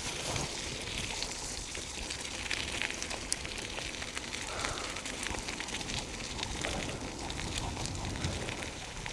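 Bicycle tyres rolling over a rough forest path: a steady crackling noise full of small clicks.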